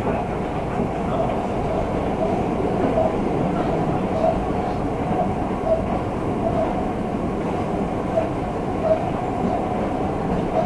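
Diesel railcar running at speed, heard from inside the car: a steady rumble of engine and wheels on rail, with a few short louder beats scattered through it.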